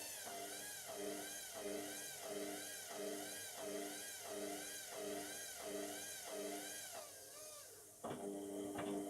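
Indesit washing machine's drum motor whining, its pitch rising and falling about twice a second as the drum strains against an unbalanced load of a single bath mat. The whine winds down a little before the end, then a steady mechanical hum cuts back in abruptly.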